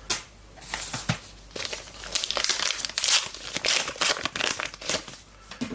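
Trading card pack wrapper crinkling and tearing as it is opened by hand: a few sharp clicks, then a dense run of rustling about a second and a half in.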